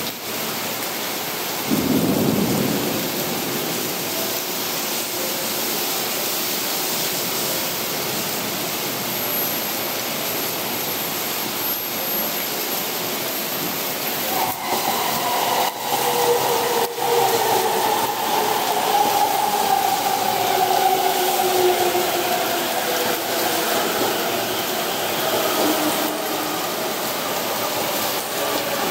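Heavy torrential rain hissing steadily on the station roof, platform and tracks, with a brief low rumble about two seconds in. About halfway through, an E231-series electric commuter train's motors come in as a whine that falls slowly in pitch while the train brakes into the station, with a few sharp clicks as it begins.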